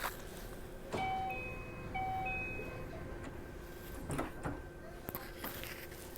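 Two chime notes about a second apart over a steady hum inside a Keio 5000 series train car, with a few short knocks about four seconds in.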